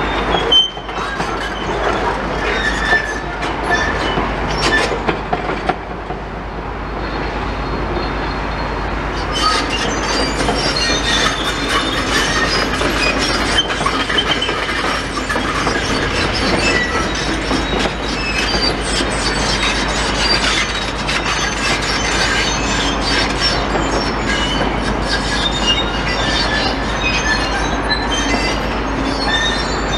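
Tracked demolition excavators working: steady clanking and knocking of metal with short squeals, mixed with the crunch of rubble.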